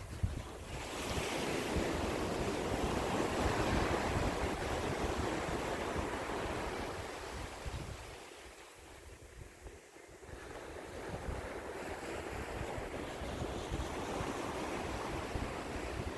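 Sea waves washing onto the shore: one surge builds and ebbs away over about eight seconds, then the next swells in. Wind buffets the microphone underneath.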